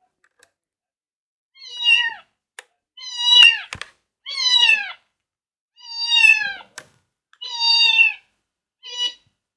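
A domestic cat meowing six times in a row, each meow falling in pitch, with a few short knocks between the calls.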